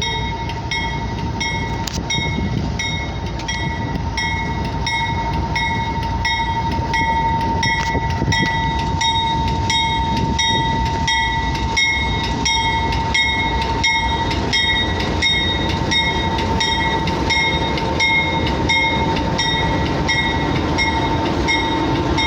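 A train with CSX and Union Pacific locomotives rolls past, a steady rumble of wheels on rail that builds a little over the first several seconds. Over it there is a steady high tone and a high ringing pulse repeating about twice a second.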